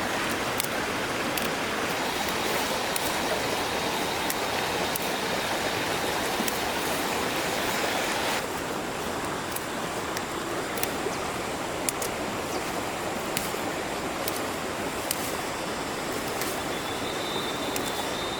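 Steady rushing of flowing water, with scattered light clicks over it; the level drops a little about eight seconds in.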